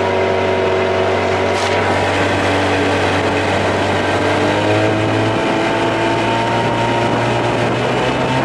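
Evinrude 25–30 hp two-stroke outboard running steadily, its pitch rising gradually through the second half as it speeds up.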